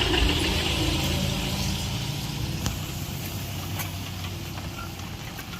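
A motor vehicle's engine running at idle, a steady low hum that fades away gradually.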